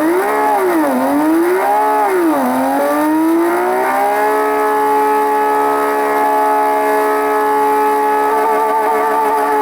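Electric motor and gear drive of a 1:24 slot car on a Scaleauto chassis whining on a test bench. It is revved up and down in about three quick blips, then climbs to a steady high whine held flat out at top speed.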